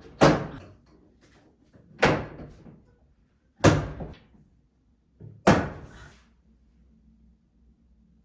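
Four sharp thuds, spaced about two seconds apart, each dying away quickly.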